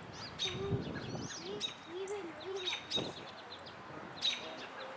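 Outdoor birds chirping and calling, with many short, sharp, high notes repeating irregularly throughout.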